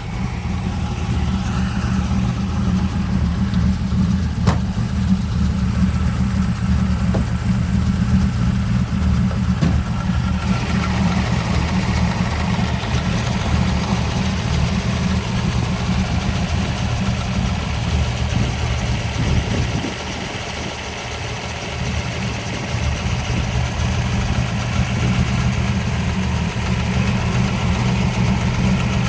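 1967 Camaro Z28's 302 cubic-inch V8 idling steadily, with a brief drop in level about twenty seconds in.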